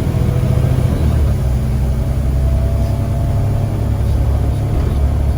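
Scania CN94UA bus's diesel engine running, a steady low drone whose note changes about a second in.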